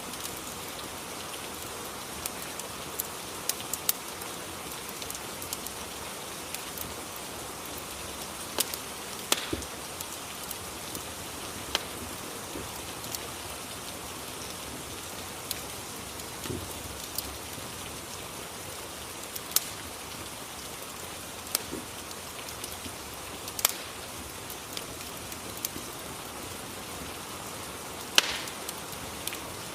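Rain-and-fireplace ambience: a steady hiss of rain with scattered sharp crackles and pops every few seconds.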